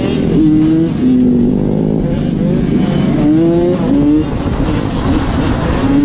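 Motorbike engine revving up and down as it rides, the pitch rising and falling several times, under heavy wind rumble on the microphone.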